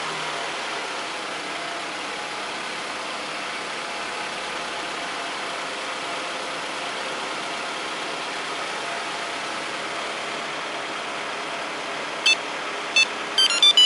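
Toyota Vellfire engine idling steadily after a remote start. Near the end, a quick series of short, high-pitched electronic beeps.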